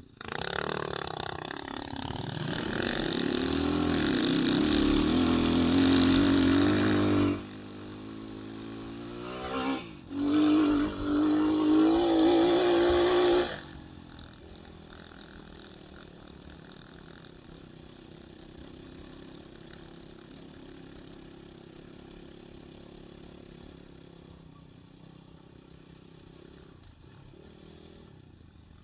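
Enduro dirt bike engine revving hard under load, its pitch climbing, for about seven seconds. It drops off briefly, comes back loud for about four seconds, then settles to a much quieter steady run for the rest.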